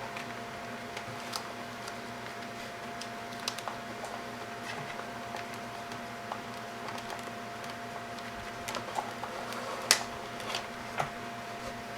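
Scattered small clicks and taps of hands handling wire and small parts, with one sharper click about ten seconds in, over a steady faint electrical hum.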